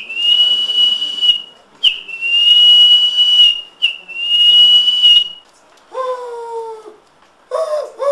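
A person whistling in imitation of a bird call: three long, steady high whistles, each opening with a short dip in pitch. About six seconds in comes a lower call with a slightly falling pitch, and another begins near the end.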